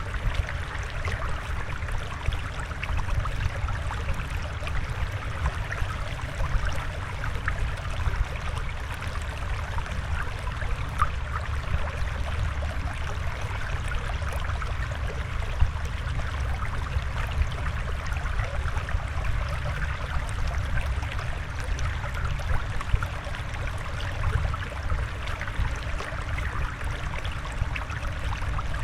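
Steady flowing, trickling water with a low rumble underneath: a fish-tank water soundscape.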